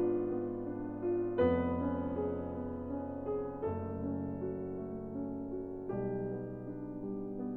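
Background music: slow piano, new chords struck about every two seconds and left to ring and fade.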